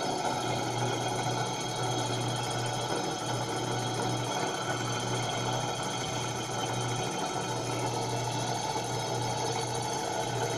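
Small homemade laminar flow hot air engine running steadily at a fast, even speed with a light, rapid mechanical clatter.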